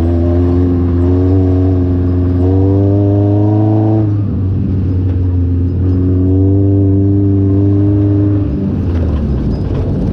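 Off-road buggy engine pulling under load, its pitch climbing steadily. About four seconds in the pitch drops suddenly as it changes gear, then it climbs again and eases off near the end.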